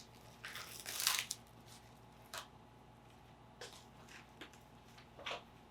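Faint rustling and handling noises of kitchen prep: a short cluster about a second in, then a few single soft clicks and rustles.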